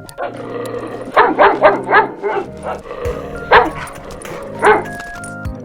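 A dog barking: a quick run of about five barks, then two single barks, over background music.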